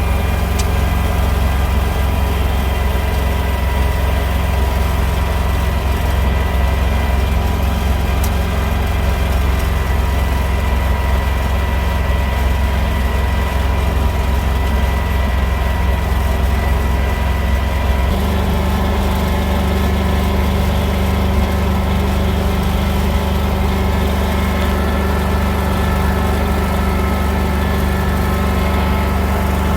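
Tractor engine running steadily, a continuous low drone. About two-thirds of the way through, its low hum shifts to a different pitch and tone.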